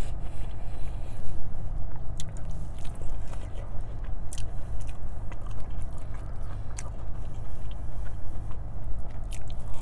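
Close chewing of a mouthful of corn on the cob, with small wet clicks and crackles from the mouth, over a steady low hum.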